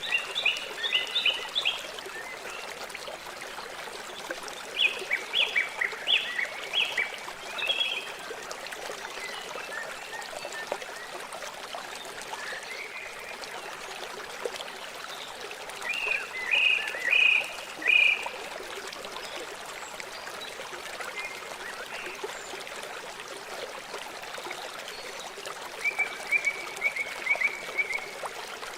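River water flowing steadily, with four bursts of short, high, rapidly repeated chirping calls over the top.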